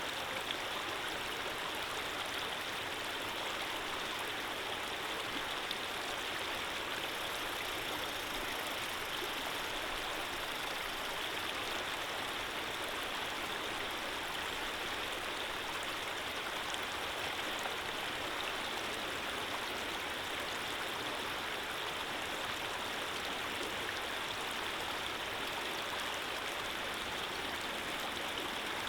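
Running water flowing steadily, an even rushing sound of a stream.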